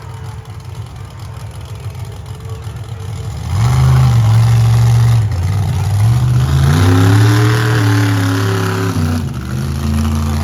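Monster truck engine idling low, then revving hard about a third of the way in, its pitch climbing and falling, dropping briefly and picking up again near the end.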